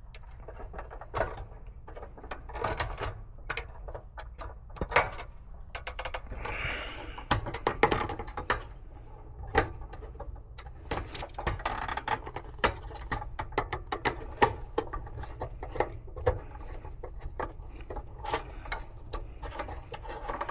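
Irregular clicks, taps and clatter of hand tools and hose fittings being handled at a heat pump's service valves, over a steady low hum.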